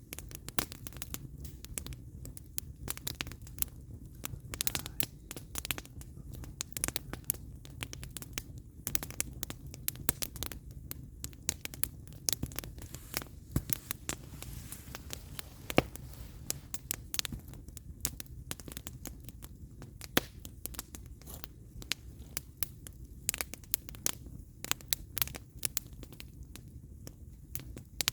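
Firewood burning in an open fire, crackling with frequent sharp, irregular pops over a low steady rumble.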